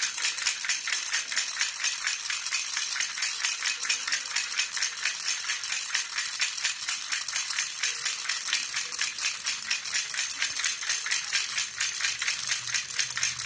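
Baby rattle (jhunjhuna) shaken steadily and rhythmically, about five shakes a second, giving a bright, high jingling.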